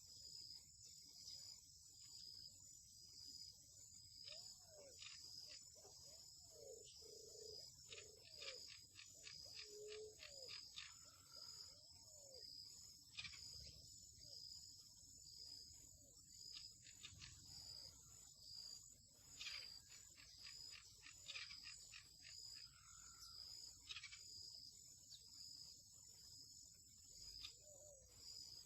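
Faint outdoor chorus: a steady high-pitched insect drone, like crickets, under many quick bird chirps and short rising-and-falling lower calls. The chirps cluster most densely in the middle stretch.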